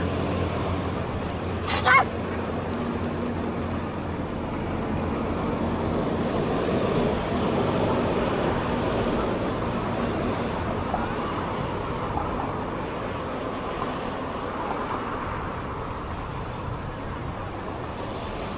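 Road traffic passing, with a low engine hum that fades out about six seconds in. A single sharp crack about two seconds in is the loudest moment.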